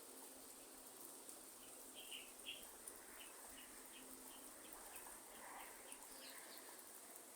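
A bird calling faintly in a run of short, high chirps, about two a second, starting about two seconds in and fading out near the end. Behind it a faint, steady hiss of light rain.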